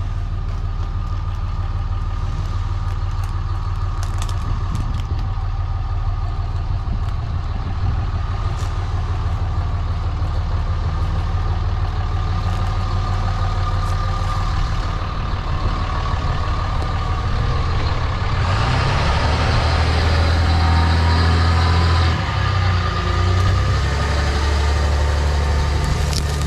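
A large vehicle engine running steadily with a low hum. It grows louder and heavier for a few seconds about two-thirds of the way through, then settles back somewhat.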